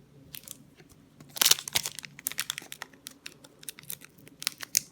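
Crinkling and tearing of a foil booster-pack wrapper being handled and opened: a quick run of sharp, irregular crackles, loudest about one and a half seconds in.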